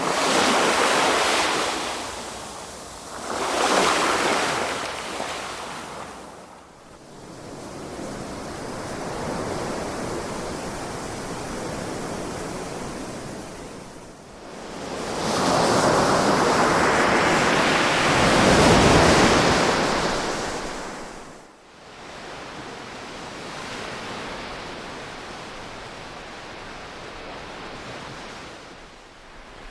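Ocean waves washing onto a shore, swelling and ebbing. Two short surges come near the start, then a calmer wash, then a larger, longer wave about halfway through, and a softer wash after it.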